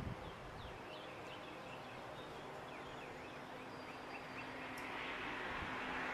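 A bird chirping in a quick series of short notes, then a vehicle approaching, its noise swelling near the end.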